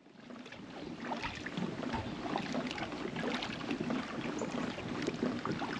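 Water splashing and dripping around a kayak on the move: a busy run of small splashes and ticks.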